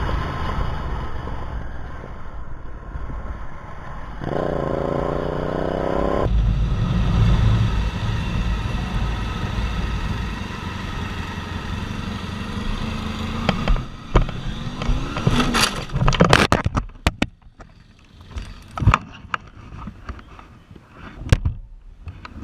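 Motorcycle engine running, revving up with a rising pitch about four seconds in and then holding steady. Past the middle, a run of sharp, loud knocks and clatter, with a few more knocks near the end over a quieter background.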